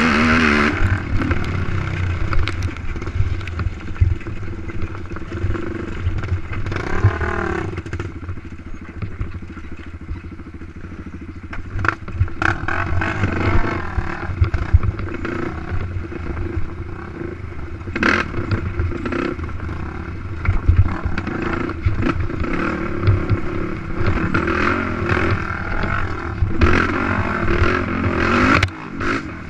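Race quad's engine revving up and down as the throttle opens and closes, easing off for a few seconds about a third of the way through before picking up again. Knocks and rattles come from the machine over rough ground.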